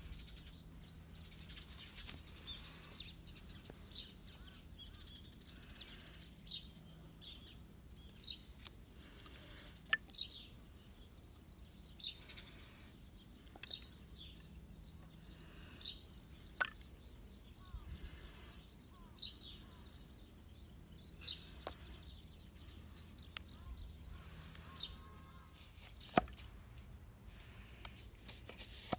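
Birds calling in woodland: short high calls repeating about every two seconds, with a few sharp knocks in between, the loudest one near the end.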